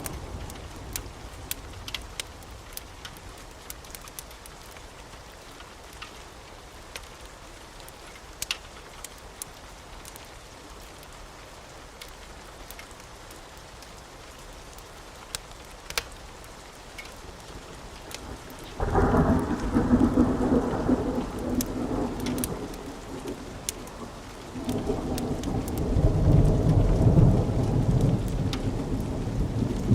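Wood fire crackling with scattered sharp pops over a soft hiss. About two-thirds of the way in, a loud, deep rumble sets in suddenly, and it grows louder again a few seconds later.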